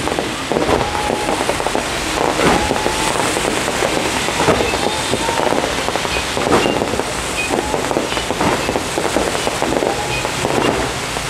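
Fireworks display at close range: dense, continuous crackling and popping of many shells and fountains going off together, with louder bangs about every two seconds.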